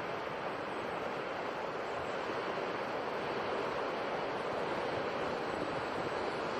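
Sea surf as a steady, even rush of noise with no distinct wave breaks or pauses.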